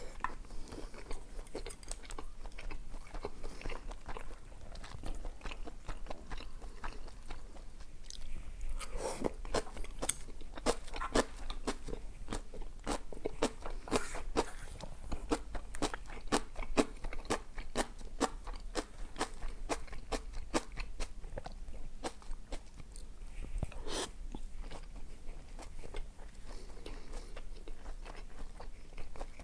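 Close-miked eating: steady chewing with many crisp crunches, thickest in the middle, and a few sharper bites standing out, one about halfway and one near the end.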